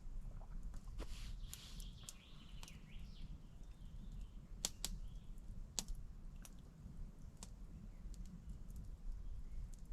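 Scattered sharp clicks and snaps, irregular and a second or more apart, over a low steady rumble.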